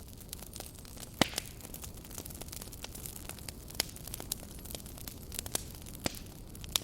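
Campfire burning, wood crackling and popping at irregular moments over a soft steady hiss, with one sharp pop about a second in.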